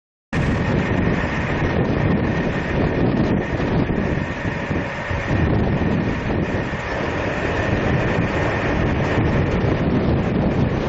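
Loud wind buffeting the microphone, a dense steady rumble that cuts in abruptly from silence, with a faint steady high tone underneath.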